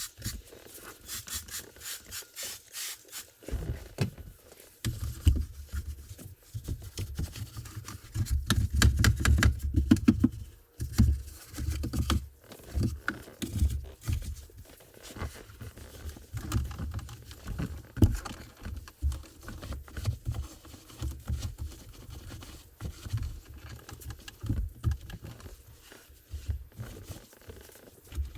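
Hands-on car detailing work close to the microphone: irregular scraping, rubbing and clicking, with frequent dull knocks and thuds and no steady machine running.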